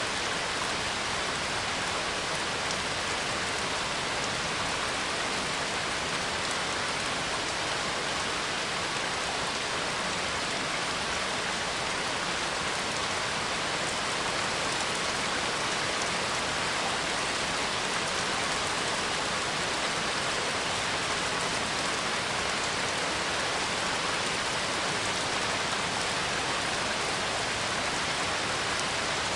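Steady rain falling, a constant even hiss with no breaks or changes.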